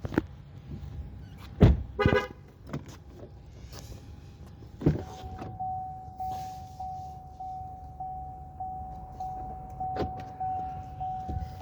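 Electronic warning chime of a GMC Acadia with the engine just shut off: one steady tone repeating a little under twice a second from about five seconds in. Several sharp knocks and thumps of the car being handled come before and over it.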